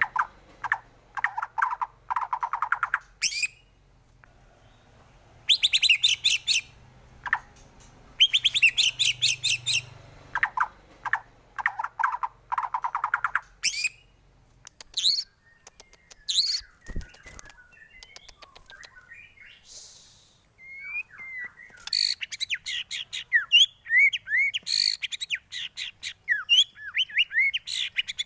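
White-rumped shama (murai batu) singing: bursts of very fast trilled rattles with short pauses between them, then a run of varied quick whistled notes near the end. A brief low knock is heard partway through.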